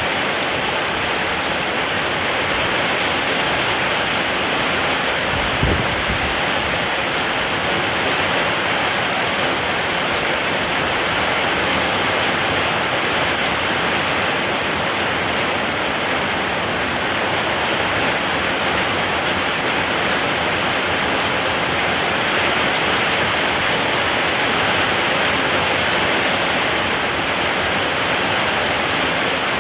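Steady rain falling, an even continuous hiss, with one brief low thump about six seconds in.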